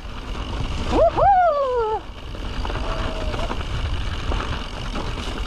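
Wind rumbling on the microphone and the mountain bike running down a snowy trail, with a rider's whoop of "우후!" about a second in.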